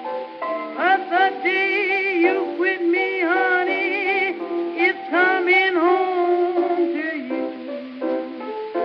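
A 1923 blues record playing: a woman singing with heavy vibrato over instrumental accompaniment. It has the thin, top-cut sound of an early recording. The voice comes in about a second in, pauses briefly around the middle, and drops out near the end while the accompaniment carries on.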